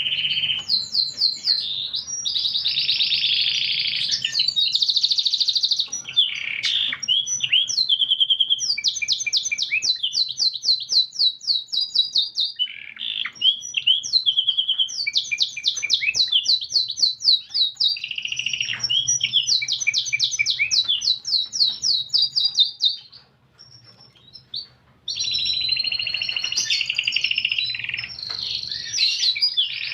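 Domestic canary singing a long song of rapid trills and fast repeated notes, breaking off for about two seconds three-quarters of the way through before starting again.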